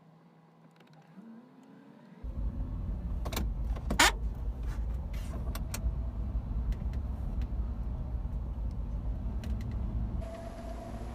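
Car driving noise picked up by a dash cam: a faint hum, then about two seconds in a sudden loud low rumble of road and wind noise, with a few sharp clicks and one knock about four seconds in.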